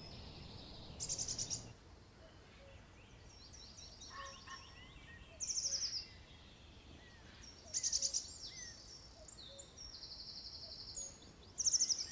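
Wild songbirds singing: a short, high trill of rapidly repeated notes comes about every three seconds, four times, with longer steady high notes and scattered chirps in between.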